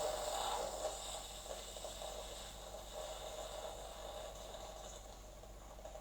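Bosch Tassimo T20 pod coffee machine running hot water through into a glass, a hiss that fades away over the first couple of seconds and then carries on faintly as the run ends.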